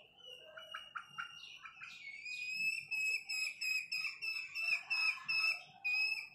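Bird calling: a high, drawn-out whistling note that pulses about three times a second over the last four seconds, with a few short chirps about a second in.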